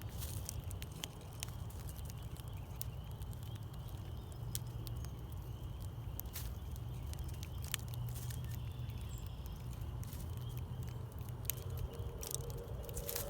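Scattered sharp clicks and taps of an animal eating seed at a backyard bird feeder, over a steady low rumble.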